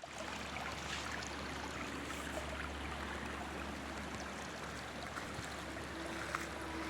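Water running in a garden pond's stream and waterfall: a steady wash of flowing water with small splashes and drips scattered through it, over a low steady hum.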